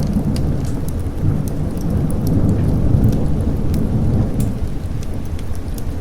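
Thunder rumbling low and rolling over steady heavy rain, swelling around the middle and easing slightly near the end, with scattered sharp clicks through it.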